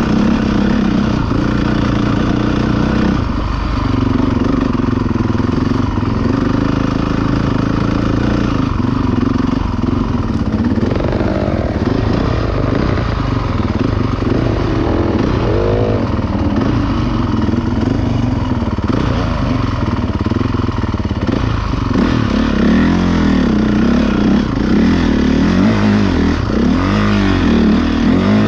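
Motocross motorcycle engines running loud and revving, the pitch rising and falling again and again, more so in the second half.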